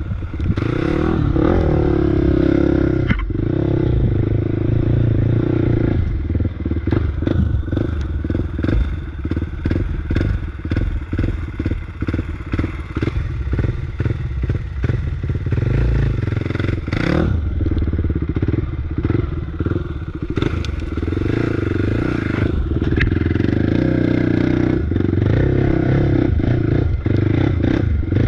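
Off-road motorbike engine running under load on a rough trail, revving up and down, with frequent clattering knocks from the bike jolting over rocks and roots, thickest through the middle stretch.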